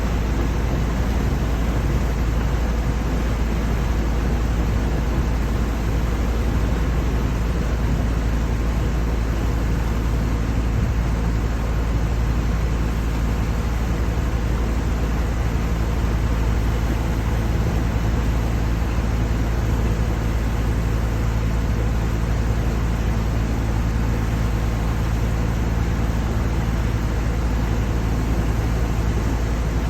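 Steady rumble of a moving ride vehicle, with a constant low motor hum and no change in pace.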